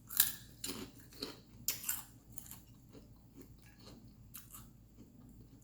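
A person eating close to the microphone: a few sharp crunchy bites in the first two seconds, then quieter chewing.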